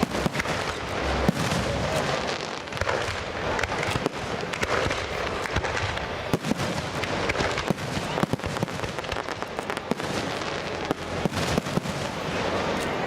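Fireworks display: a dense, continuous barrage of crackling pops and bangs in quick succession.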